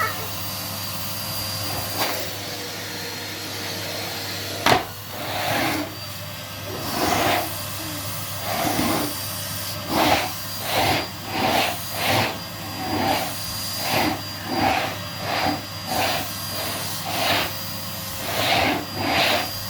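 Numatic Henry cylinder vacuum cleaner running with a steady hum, sucking up spilled Rice Krispies cereal. There is a sharp knock about five seconds in, then the sound swells and fades in a regular rhythm, about one and a half times a second.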